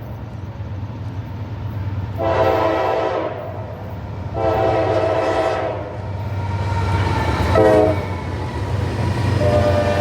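Diesel freight locomotive horn blowing the grade-crossing signal: two long blasts, a short one, then a long one starting near the end. A steady low rumble of the approaching locomotives runs underneath.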